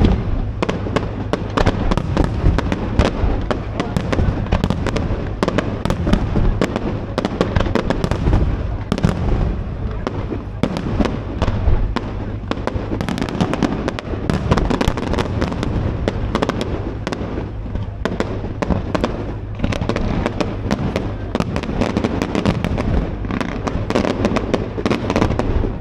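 Fireworks display: a dense, continuous barrage of sharp bangs and crackling over a constant low rumble.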